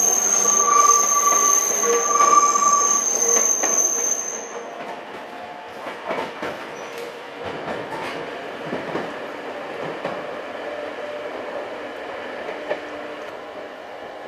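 Nankai 2000 series electric train pulling away, its wheels squealing on the curve with a loud, steady high-pitched squeal. About four and a half seconds in the squeal stops, and a quieter running rumble with scattered clicks of wheels over rail joints fades as the train goes into the tunnel.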